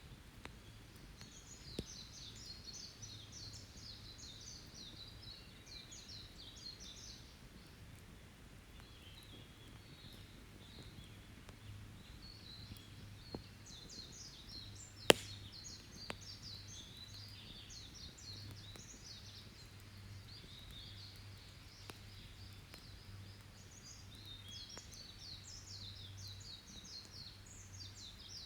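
A songbird singing long, rapid, high chittering phrases, three of them with pauses between, over a wood campfire that gives a few sharp crackles and one loud pop about fifteen seconds in.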